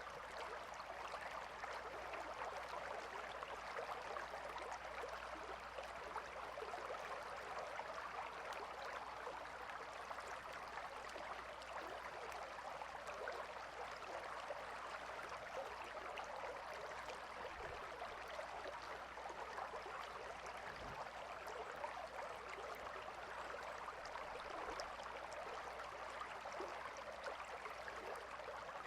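A small river or stream flowing steadily, a continuous bubbling rush of water over rocks.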